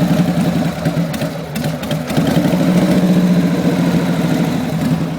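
1994 Harley-Davidson Sportster's air-cooled Evolution V-twin, big-bored to 1200 cc, idling with an even pulsing beat through long drag pipes, on half choke while it warms up from a cold start. The beat sags briefly a couple of seconds in, then picks back up.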